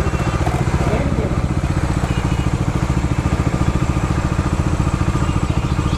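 Motorcycle engine running steadily at low revs with an even, fast pulse.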